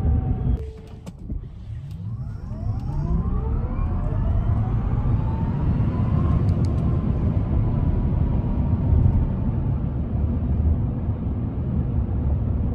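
Tesla Cybertruck's electric drive motors whining under hard acceleration. After a short lull about a second in, several whine tones climb steadily in pitch and level off about six seconds in, over a constant low road and wind rumble.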